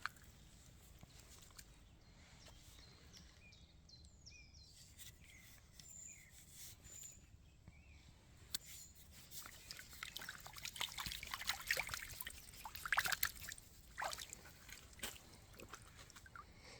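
Quiet forest ambience with a few short bird chirps, then from about halfway a run of crackling and rustling, as of something moving through dry forest-floor litter, loudest a little past the middle.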